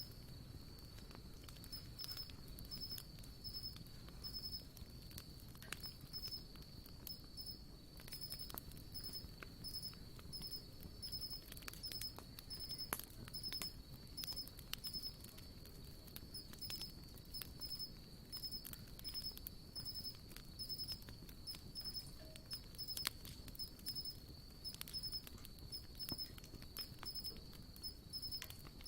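Wood campfire crackling, with scattered sharp pops at irregular moments, over a steady high insect trill with evenly repeating chirps.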